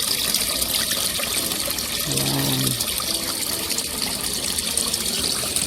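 Running water splashing and trickling steadily, with faint voices in the background.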